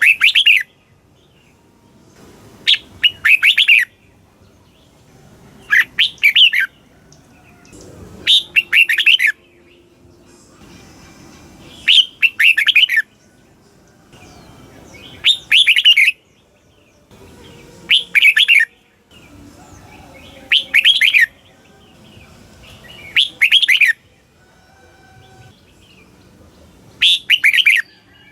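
Red-whiskered bulbul singing: short, loud phrases of quick whistled notes, about one every three seconds, some ten phrases in all.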